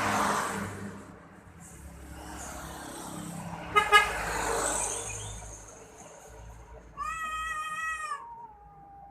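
Traffic passing in the first half. About seven seconds in, a fighting cat gives a loud, drawn-out yowl that holds high for about a second, then drops lower and wavers on.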